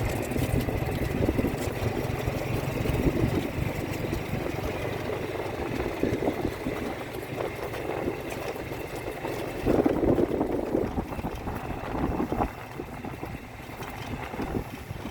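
A vehicle driving slowly, its engine and rolling rumble steady, with a louder patch of rumble about ten seconds in.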